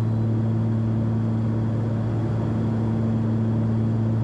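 Cessna 340's twin turbocharged six-cylinder piston engines and propellers running steadily, heard inside the cabin as a constant low drone during the descent on approach, with power reduced.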